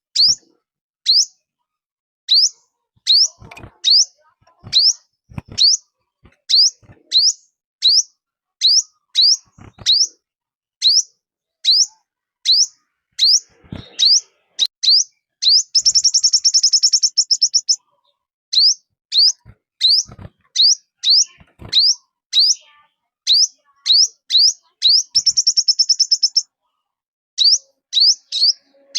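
Songbird lure call of the bird known in Vietnam as the 'chim 5 màu' (five-colour bird): short high notes, each sliding down in pitch, repeated about twice a second, twice broken by a fast buzzy trill lasting one to two seconds.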